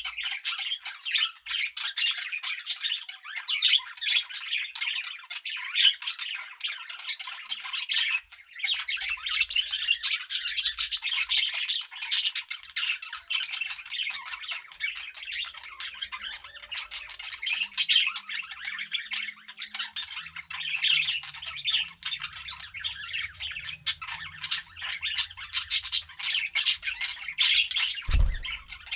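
Several budgerigars chattering, a dense, continuous stream of short chirps, warbles and squawks. There is a brief low thump near the end.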